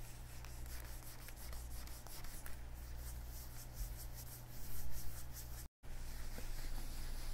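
Leather gloves rubbing against each other close to the microphone, with a run of quick rubbing strokes in the middle and a brief break in the sound near the end, over a low steady hum.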